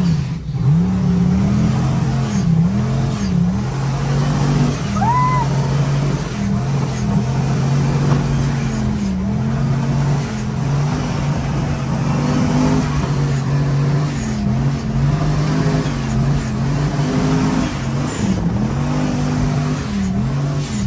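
Vehicle engine revving up and down over and over, working to keep moving through deep, soft sand.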